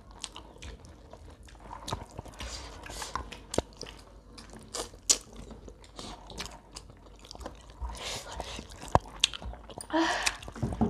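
Close-up chewing, lip-smacking and biting of a meal of crisp-fried chicken and chickpea-potato gravy eaten by hand, with scattered small clicks and crunches.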